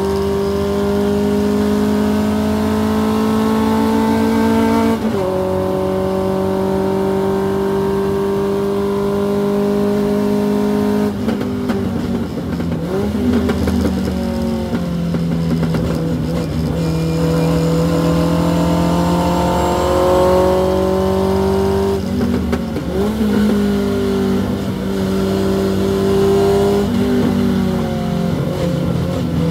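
Hillman Avenger race car's four-cylinder engine, heard from inside the cabin, running hard at full throttle. The pitch climbs steadily and falls back sharply several times, at a gear change and where the car lifts off for corners, then climbs again.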